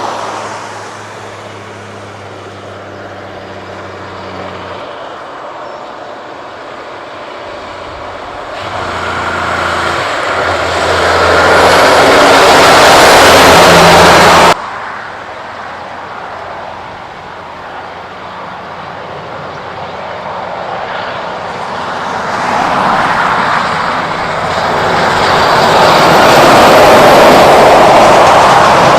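Kenworth trucks driving past on the road: engine and tyre noise builds to a loud pass, breaks off abruptly about halfway through, then another truck approaches and goes past loudly near the end.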